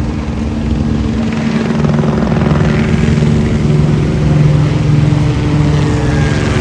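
A steady, loud engine drone with a low hum that builds over the first two seconds, then holds.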